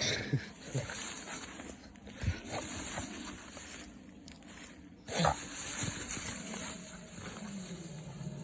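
English Staffordshire bull terrier grunting and snuffling in short bursts, the loudest about five seconds in, over a steady high hiss.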